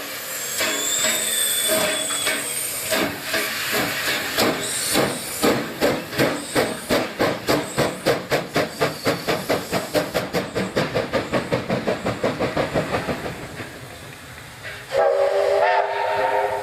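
Steam locomotive getting under way: a hiss of steam, then exhaust beats that quicken steadily and fade as it draws off, and a short whistle blast near the end.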